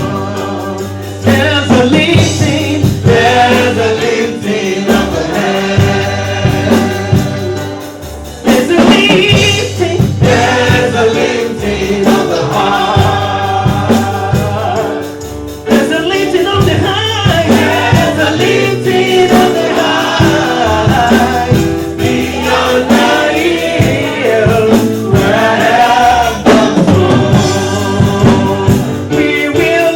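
Gospel choir singing a worship song with band accompaniment: sustained bass notes under the voices and a regular drum beat.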